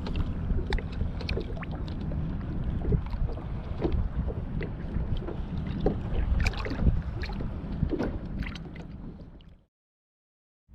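Kayak on the water: a steady low wind rumble on the microphone, with scattered small knocks and splashes of water against the hull. The sound fades and cuts to silence near the end.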